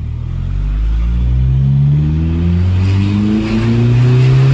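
Volkswagen Saveiro pickup's engine accelerating, heard from inside the cab, its pitch rising steadily through one gear and growing a little louder.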